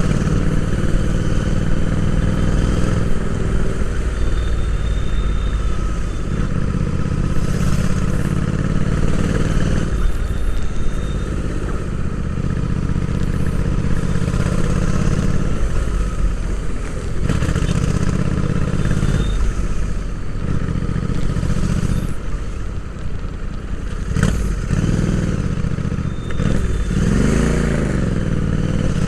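Royal Enfield Interceptor 650's 648 cc parallel-twin engine running under way, heard from onboard the motorcycle; the engine note rises and falls every few seconds with throttle and gear changes, with a dip and a wavering rev near the end.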